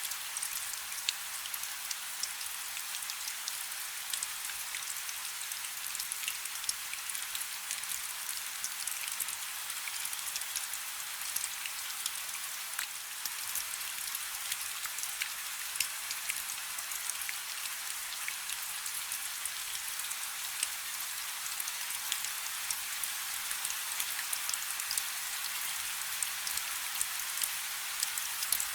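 Light rain falling steadily: a soft high hiss of many small drops, with single drop ticks scattered all through it.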